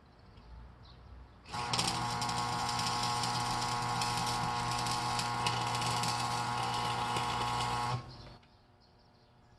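Electric arc welding: a steady buzzing, hissing arc starts about a second and a half in, holds for about six seconds, then cuts off sharply.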